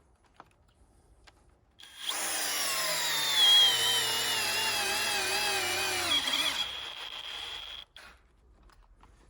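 Cordless drill-driver driving a screw into a wooden board, its motor whining for about four and a half seconds with a wavering pitch that sags under load and drops away as the screw seats.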